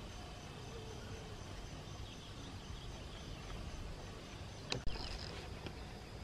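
Insects chirping in a steady, evenly pulsing high trill over a low outdoor background, with one sharp knock about three-quarters of the way through.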